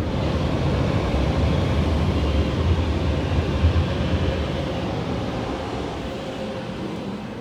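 Automatic car wash's air dryer blowers running steadily with a heavy rumble and a faint steady hum, heard from inside the car, fading gradually over the last few seconds.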